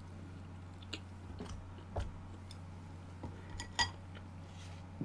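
Faint chewing of a mouthful of food, with a few light clicks of chopsticks against a bowl.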